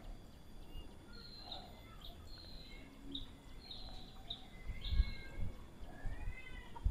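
Birds chirping, a string of short high chirps with an arching call near the end. A dull low thump about five seconds in.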